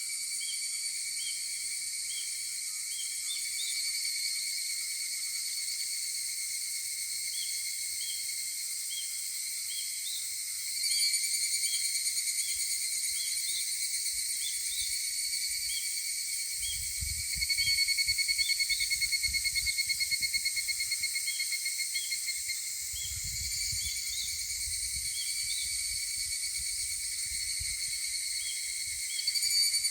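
Chorus of higurashi (evening cicadas, Tanna japonensis) calling: a steady high ringing trill from several insects. A nearer one breaks in louder with a rapid pulsing call about a third of the way in, again a little past the middle, and near the end.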